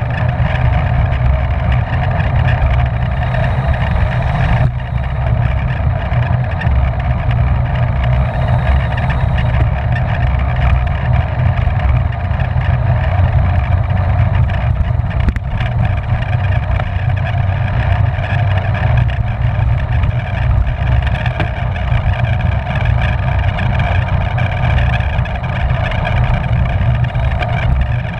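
Wind rushing over the microphone of a bike-mounted camera at racing speed, with a deep buffeting rumble and a steady whir of tyres and drivetrain beneath it.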